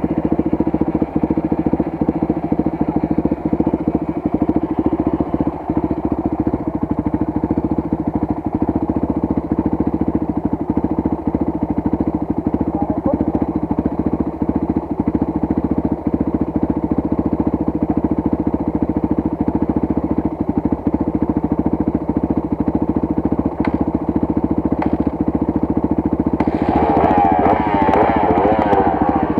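Motorcycle engine running steadily, its firing pulses dense and even. Near the end a wavering higher tone joins it.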